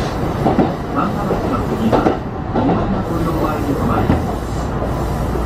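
Kintetsu Kyoto Line express train running, heard from just behind the driver's cab: a steady rumble with knocks from the wheels passing over rail joints.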